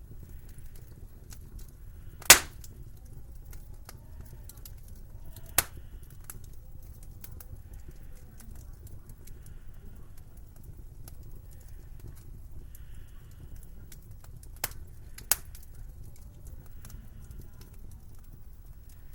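Wood fire in a fireplace crackling over a low steady rumble, with scattered small clicks and a few sharp pops: a loud one a couple of seconds in, another a few seconds later, and two close together past the middle.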